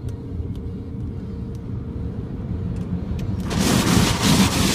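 Automatic car wash heard from inside the car: a steady low rumble, then about three and a half seconds in a loud rushing wash noise starts hitting the car and builds.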